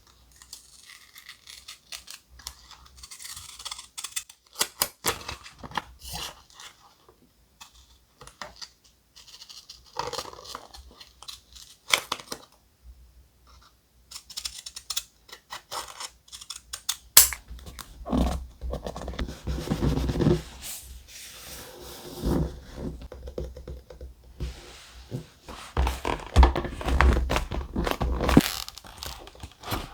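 Thick paper and sticker sheets being handled close to the microphone: scattered taps, scratches and soft rustles, then denser, louder rustling and crinkling with dull thumps in the second half.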